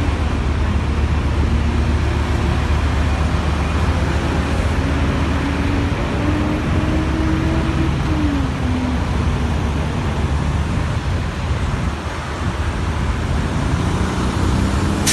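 Vehicle engine and road noise: a steady low rumble with an engine note that rises and falls slowly as the vehicle moves, and a sharp click at the very end.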